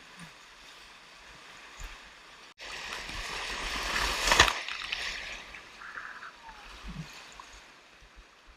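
Whitewater rapids rushing, with a louder surge of splashing water about halfway through that peaks and then fades.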